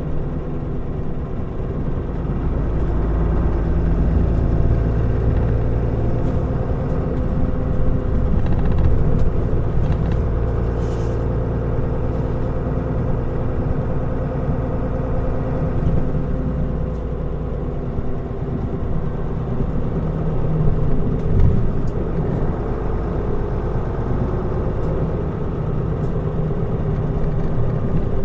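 Mitsubishi Fuso Aero Star city bus's diesel engine running steadily with road noise while the bus drives along, growing a little louder a few seconds in.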